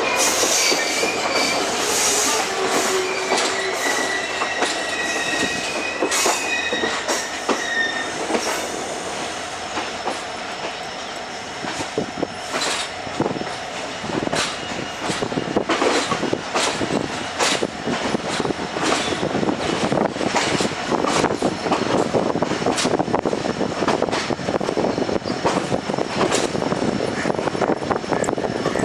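Passenger train wheels running on the rails: a high, wavering flange squeal in the first several seconds, then a busy clatter of wheels over rail joints that grows denser through the second half.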